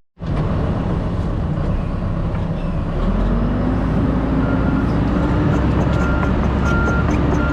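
John Deere 130G excavator's diesel engine running under hydraulic load, its pitch rising about three seconds in as it works harder. From about halfway through, a short high beep repeats at a steady pace.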